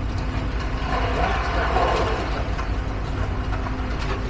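Steady low engine rumble, with a rushing noise that swells and fades around the middle.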